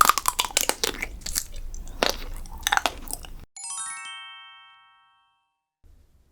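Close-up crunchy bites and chewing of chocolate desserts, sharp crackles that cut off suddenly about three and a half seconds in. A short rising run of bell-like chime notes follows and rings out.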